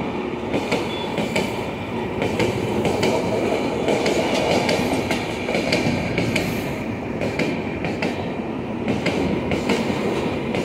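Rajdhani Express passenger coaches rolling past on the track, a steady rumble of steel wheels on rail with frequent sharp clacks as the wheels run over the track.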